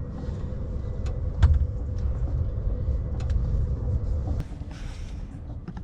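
Mercedes eActros electric truck driving, heard from inside the cab: a steady low rumble from the road, a heavy thump about a second and a half in, and scattered small knocks.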